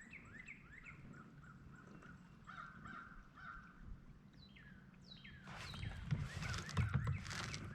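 Birds calling outdoors: a string of short, repeated sliding calls through the first half, over a steady low background hum. About five and a half seconds in, a noisy rush of sound lasts about two seconds.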